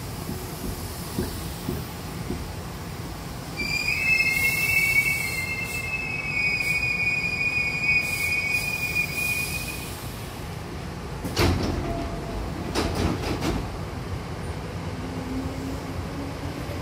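Hankyu train braking to a stop, its wheels giving a steady high two-note squeal for several seconds. A couple of seconds after it stops, a loud clunk and a short cluster of knocks as the passenger doors slide open.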